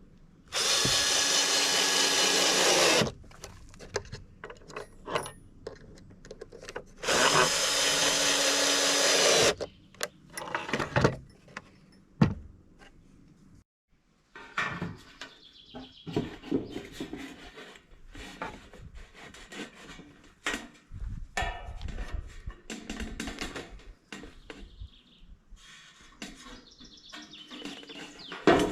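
Power drill running twice, each time steadily for about two and a half seconds, followed by lighter knocks and handling sounds from the work.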